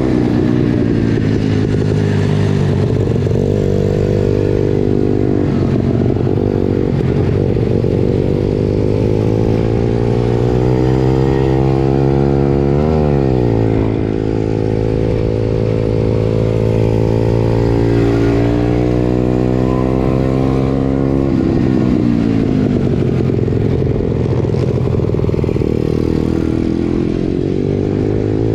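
Pit bike engine running continuously, its pitch drifting up and down with the throttle. There is a quick sharp swing in revs about halfway through and a drop in revs about three quarters of the way in.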